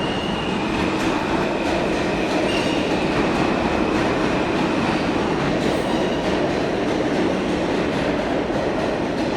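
New York City subway train running, a steady loud rumble and rattle with a thin high wheel squeal near the start.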